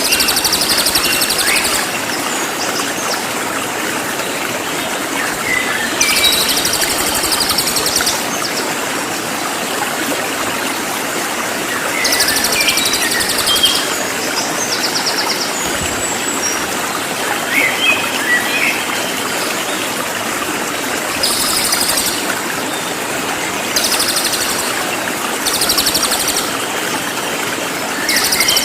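Cililin songbird repeating high, rapid, buzzy trills of about two seconds each, half a dozen times, with short chirps in between. All of it sits over the steady rush of flowing water.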